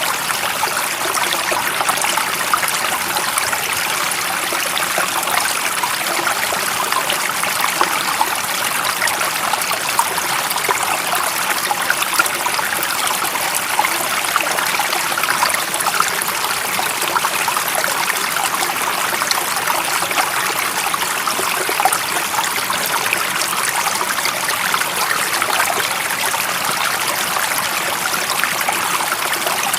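Running water of a stream flowing steadily: a continuous bright rush, flecked with many small splashes and trickles.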